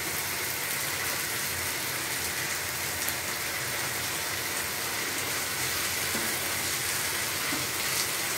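Stir fry of lamb, peppers and onions sizzling steadily in a hot pan as bean sprouts are dropped in and stirred through with a wooden spatula.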